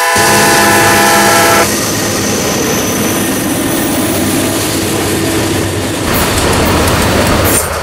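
Diesel-electric freight locomotives passing close by, engines running with a steady rumble and wheels clattering over the rail joints. A locomotive horn is still sounding briefly at the start.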